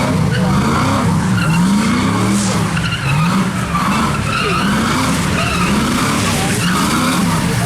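A car doing donuts: its engine revs up and down over and over, about once a second, while the spinning tyres squeal and skid.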